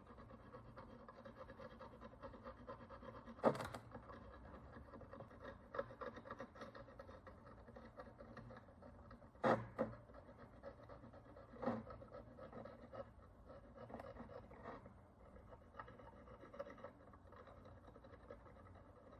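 Faint handling and scratching sounds over a steady low hum, with a few sharp clicks or taps: one about three and a half seconds in, two close together near the middle, and another a couple of seconds later.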